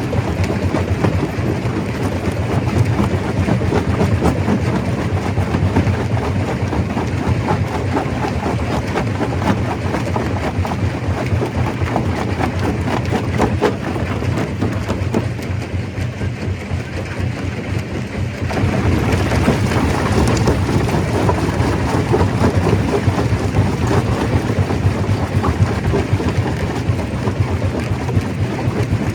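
Stone crusher running and breaking rock: a continuous low rumble under a dense clatter of stones. It eases for a few seconds just past halfway, then picks up again.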